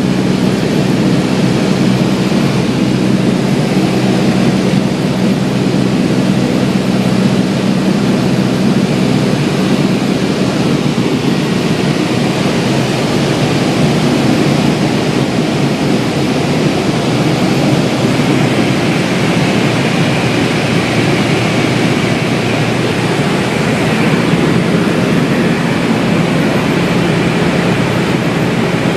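Cessna 172 light airplane's piston engine and propeller droning steadily, with a rushing airflow noise over it; after about ten seconds the steady hum fades and the more even rush takes over.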